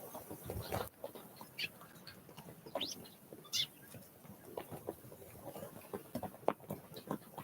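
Small wild songbirds: a few short, high chirps among scattered light taps and clicks.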